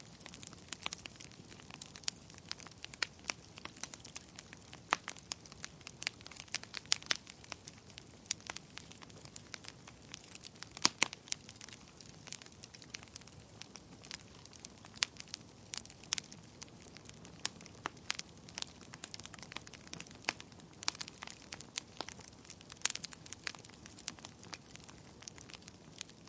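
Wood fire crackling in a fireplace: irregular sharp pops and snaps over a faint steady hiss, one pop louder than the rest about halfway through.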